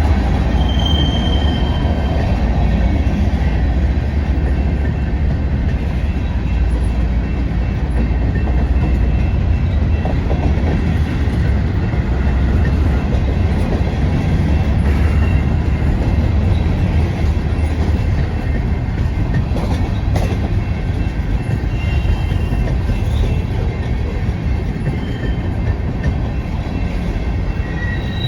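A train rolling past with a steady low rumble, with a few brief high wheel squeals from the rails.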